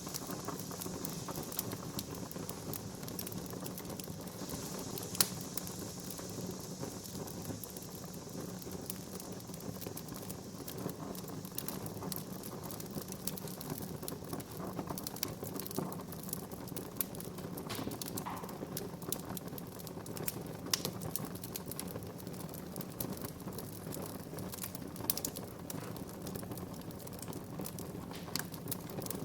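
Wood fire crackling in a fireplace: a steady hiss with frequent small pops and snaps, and one sharper pop about five seconds in.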